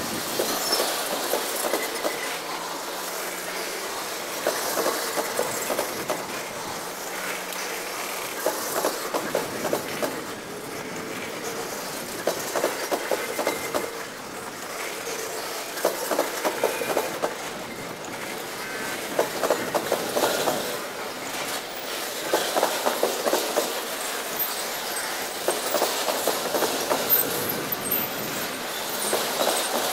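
Loaded tank cars of a freight train rolling over a railroad diamond crossing: a steady rolling rumble broken about every three to four seconds by a quick cluster of clattering wheel impacts as each set of trucks crosses the diamond.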